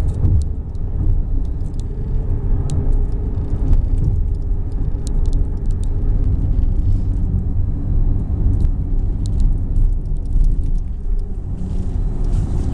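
Steady low rumble of road and wind noise inside a moving car's cabin, with a few faint light clicks.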